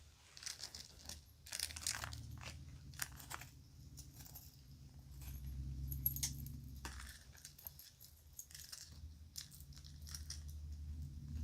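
Kids' jewelry and its bag being handled: a run of irregular small clicks, clinks and crinkles, over a low background hum.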